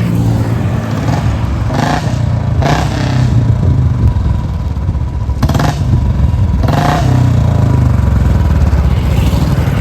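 Royal Enfield Bullet 350's single-cylinder engine running loud through a free-flow C-bend pipe and mini Punjab silencer, with four short rasping surges as it is revved.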